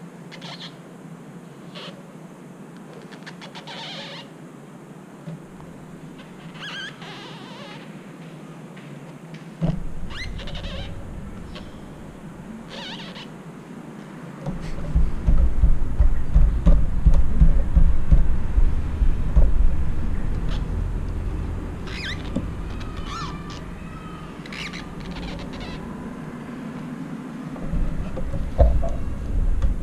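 Birds chirping now and then over a low background. About halfway through, a loud low rumble comes in and slowly eases off.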